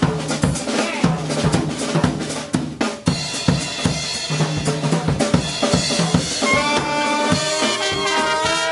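Drum kit break in a Dixieland jazz tune: fast snare strokes, rimshots and bass drum, with the brass coming back in near the end.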